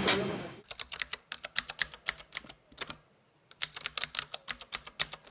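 Rapid clicks like keyboard typing, about seven a second, in two runs of roughly two seconds each with a short pause between.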